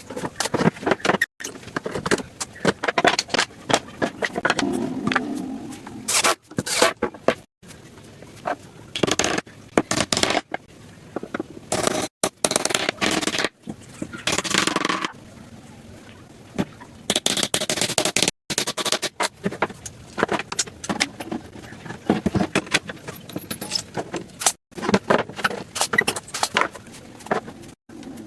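Scraping and knocking in short bursts, broken by several abrupt cuts.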